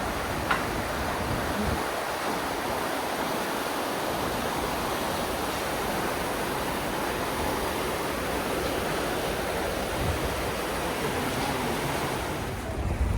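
Steady rush of the Iguazu River's water, an even hiss with no rhythm. Near the end it gives way to a lower, gusty rumble.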